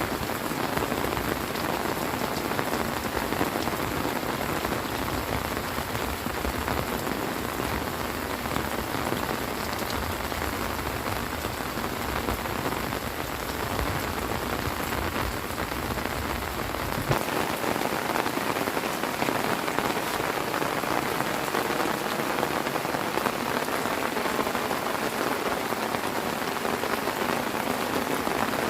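Heavy rain falling steadily in a dense, even hiss. A low rumble under it drops away abruptly about seventeen seconds in.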